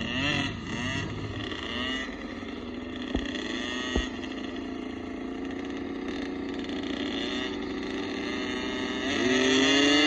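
Small motocross bike engines running and revving, their pitch rising and falling and getting louder near the end. Two short knocks about three and four seconds in.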